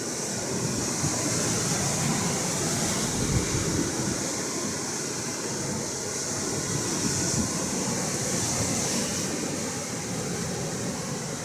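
Atlantic Ocean waves and surf washing steadily, swelling a little a couple of times, with wind rumbling on the microphone.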